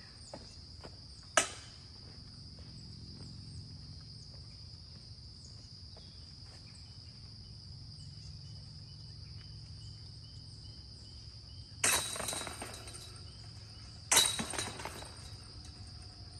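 Crickets chirping steadily, with two loud metallic crashes about twelve and fourteen seconds in, each rattling away over about a second, typical of disc golf discs hitting the chains of a basket.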